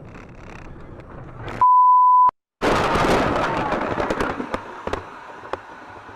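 A loud, steady bleep tone lasting under a second, cut off into a moment of silence. Then a sudden loud dashcam-recorded crash noise that fades over about two seconds, with scattered clicks and knocks.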